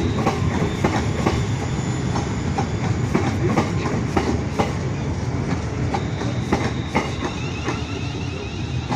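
Pair of Class 350 electric multiple units pulling out, a steady low rumble of running gear with many irregular clicks and knocks as the wheels cross the track joints.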